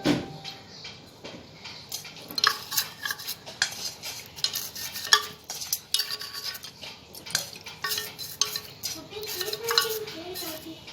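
Hard metal objects clinking and scraping against each other in quick, irregular clicks, some with a short ring, as of tools and parts being handled during restoration work on a metal compass.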